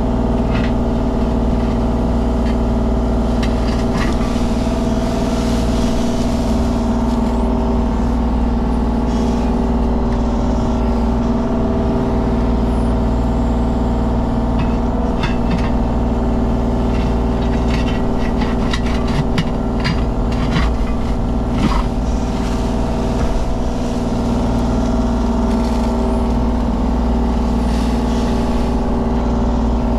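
Mini excavator's diesel engine running at a steady speed under hydraulic work. A run of sharp clicks and knocks sounds in the middle.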